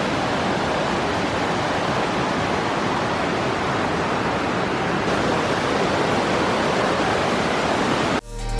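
Steady rush of falling water from the Seven Springs Waterfall, close to the microphone. It cuts off abruptly near the end, and electronic music with a beat starts.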